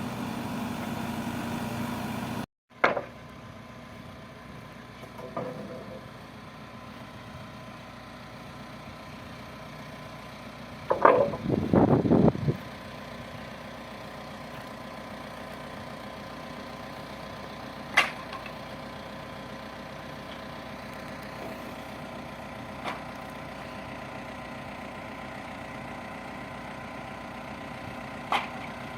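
Backhoe loader's diesel engine running steadily at idle, broken by a brief cut. Over the engine come a few sharp knocks and, about eleven seconds in, a louder rough clatter lasting over a second.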